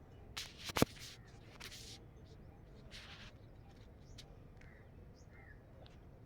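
Faint bird chirps in the open air, with a few brief rustles and one sharp click about a second in.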